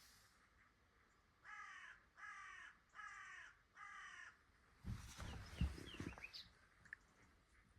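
A bird calling four times, the calls evenly spaced and each about half a second long, falling slightly in pitch. A brief clatter of knocks follows, the loudest sound here, with a few short high chirps.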